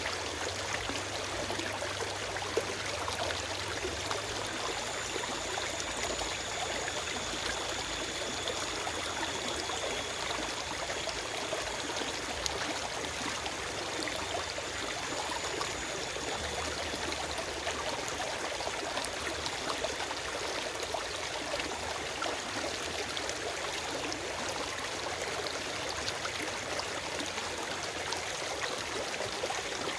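Forest stream running steadily: a continuous, even rushing of flowing water with no birdsong.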